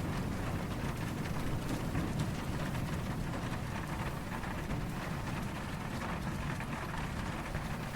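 Steady rain falling, an even hiss of drops, with a low, distant thunder rumble underneath that dies away over the first few seconds.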